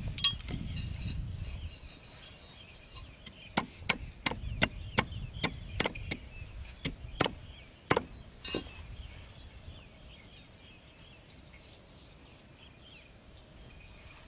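About a dozen sharp wooden knocks over some five seconds, like a blade chopping or tapping wood, after a low rumble in the first two seconds. Faint chirping of birds or insects runs underneath.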